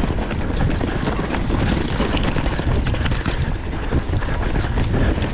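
A mountain bike riding fast down a rough trail. Wind buffets the microphone, and the bike rattles with many small knocks from the tyres and frame over stones and roots.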